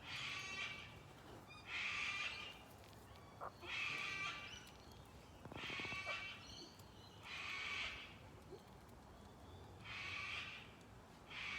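A bird calling over and over: a series of raspy, drawn-out calls, each under a second long, about every two seconds.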